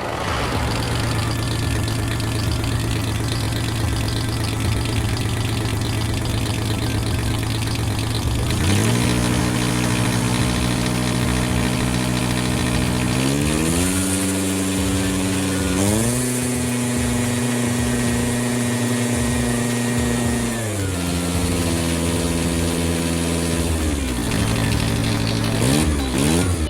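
Vehicle engine idling steadily, then revving up in steps about nine, thirteen and sixteen seconds in. It holds the higher revs for a few seconds, drops back down in two steps, and rises briefly again near the end.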